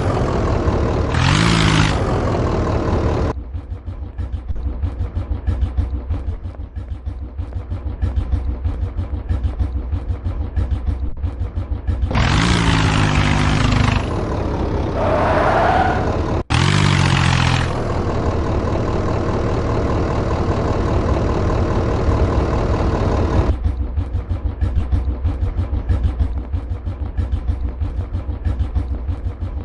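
Tractor engine running with a fast, steady thudding beat, revved hard in several short loud bursts that rise and fall back to idle.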